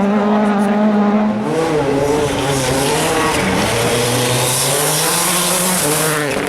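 Rally car engine running hard at high, steady revs, then dropping lower about one and a half seconds in. As it drops, a loud hiss of the tyres sliding rises and lasts most of the rest of the time.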